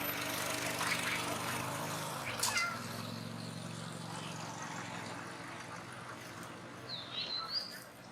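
A macaque's short high squeal, sliding down in pitch, about two and a half seconds in, and a brief high chirp near the end, over a low steady hum that fades out around the middle.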